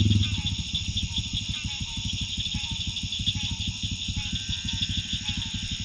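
Single-cylinder 650 dual-sport motorcycle engine coming off the throttle about a quarter second in and settling to a steady, even idle.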